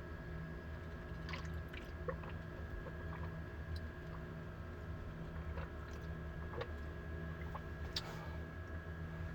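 A steady low hum with a few faint clicks and small handling sounds scattered through it.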